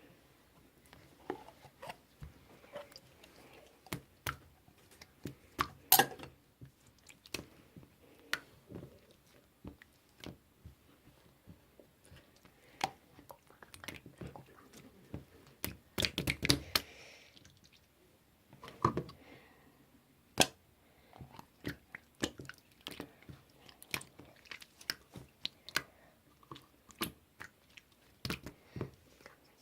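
Hands squishing and poking slime, making irregular sticky clicks and pops, with a quick cluster of them a little past halfway.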